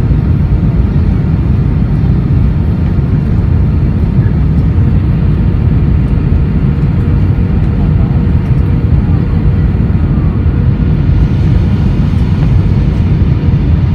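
Steady low roar of an Airbus A320 airliner in flight, the engines and rushing air heard as cabin noise, with a faint steady hum above it.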